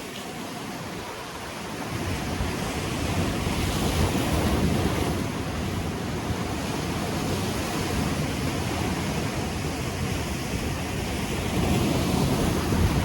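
Ocean waves breaking and washing on the shore, swelling and easing, with wind buffeting the microphone.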